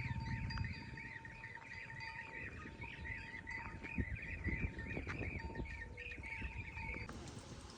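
A bird chirping in a rapid, repeating series of several chirps a second, with a few soft knocks in the middle; the chirping stops abruptly near the end.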